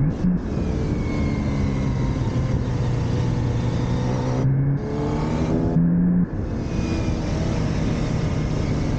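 Motorcycle engine being ridden, its note rising and falling with throttle and gear changes, over a steady rushing noise.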